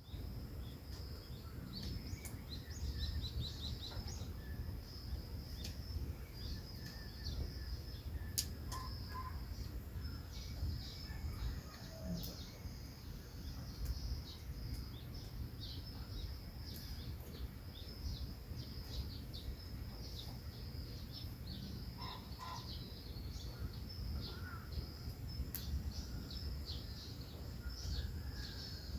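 Small birds chirping and twittering, many short high calls overlapping throughout, over a steady low rumble.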